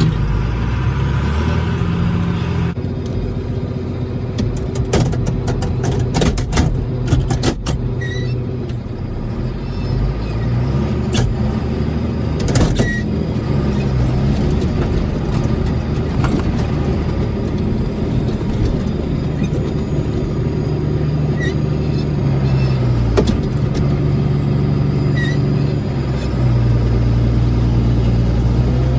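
Farm tractor engine running steadily, its pitch stepping up and down a few times, with a quick run of clanks and rattles a few seconds in and another about halfway through.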